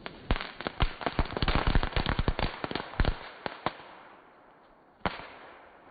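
Firecrackers set off in pumpkins, going off in a rapid crackle of sharp bangs for about three and a half seconds, then one more single bang about five seconds in.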